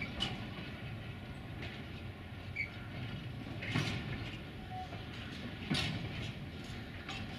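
Train rolling through a rail yard: a steady low rumble broken by a few irregular sharp clanks of wheels and wagons, the loudest about two thirds of the way through.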